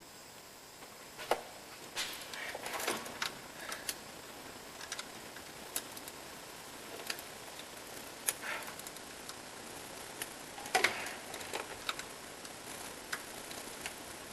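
Scattered clicks and light metallic knocks at uneven intervals over a steady hiss: tools and metal parts being handled during engine work.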